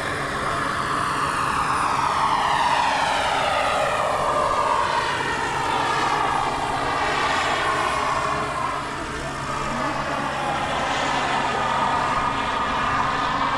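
Radio-controlled model helicopter flying, its engine and rotor whine sliding down in pitch and then back up as it moves about.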